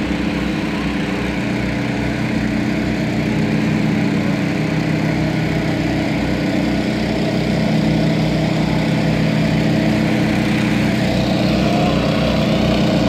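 Engine of a water pump running steadily, pumping out floodwater, with an even low pulsing beat.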